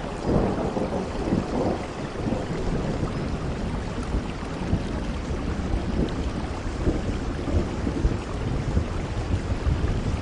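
Steady rainfall: a dense, even wash of drops over a deep, uneven low rumble.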